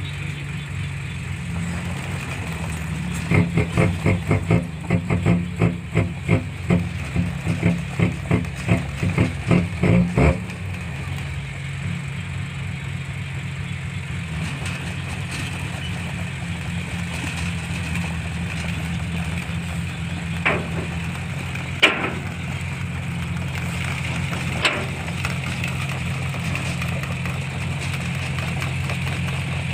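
Heavy diesel engine of an earthmoving machine running steadily. For several seconds near the start, a run of regular loud pulses comes about two a second, and later a few sharp clicks.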